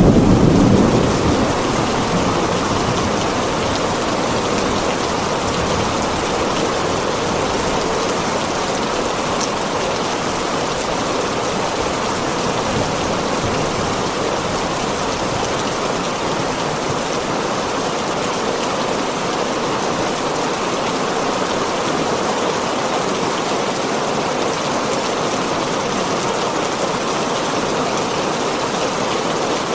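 Steady heavy rain on a tin roof. A thunder rumble fades away in the first second or two.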